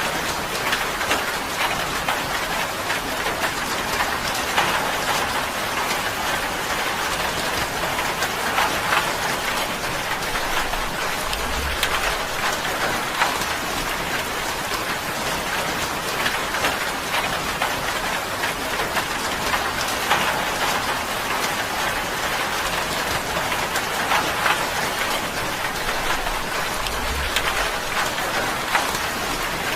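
Steady rain drumming on a tin roof: a dense, even patter of drops that swells and eases a little from moment to moment.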